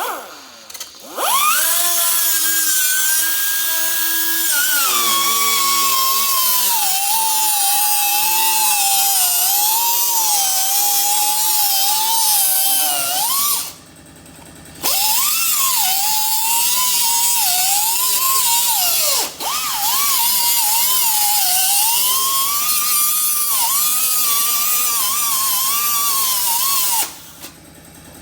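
Small angle grinder with a thin cut-off wheel cutting through a caravan's aluminium exterior panel, a high whine whose pitch sags and wavers as the disc bites. The cut pauses briefly about halfway through, resumes, and stops near the end.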